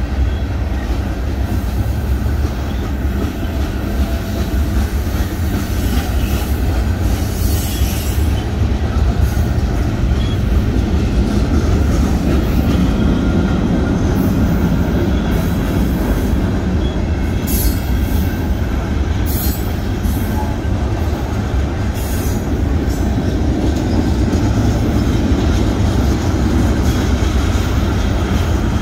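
Freight train cars rolling past close by: a steady heavy rumble of steel wheels on rail, with a few brief high screeches from the wheels.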